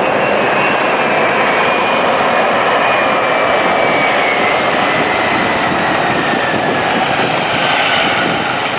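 Boeing 737-300's CFM56-3 jet engines, a loud steady roar with a whine that falls slowly in pitch as the engines spool down on the landing roll.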